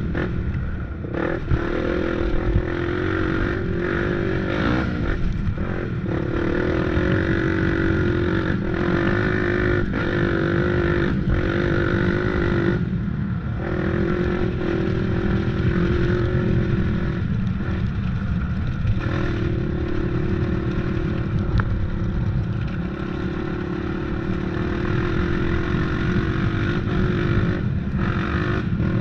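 Off-road engine running under throttle on a trail ride, its note rising and falling, with several short drops where the throttle is let off, over a steady low rumble.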